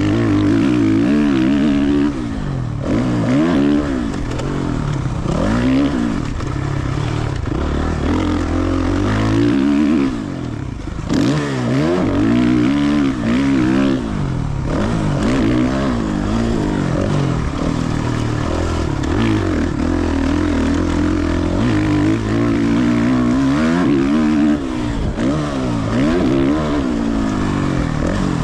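Suzuki RM-Z450 four-stroke single-cylinder motocross bike being ridden hard, its engine revving up and falling back again and again as the throttle is opened and closed. The throttle is briefly chopped around ten seconds in.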